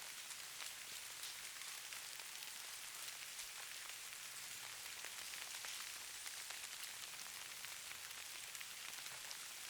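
Snow falling and pattering on a surface: a steady soft hiss dense with fine, tiny ticks.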